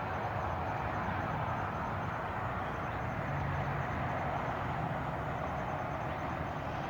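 Steady rushing hum of distant traffic on the I-19 interstate highway.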